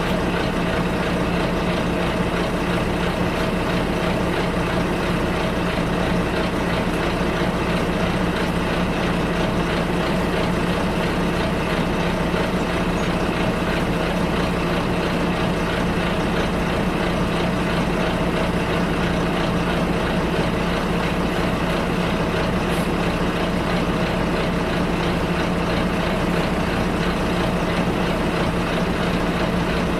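Bus interior: the engine drones steadily with a low hum, mixed with even cabin and road noise and no distinct events.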